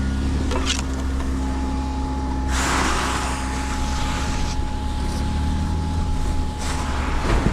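Off-road SUV engine running steadily at low revs, with a rushing noise that swells for about two seconds in the middle.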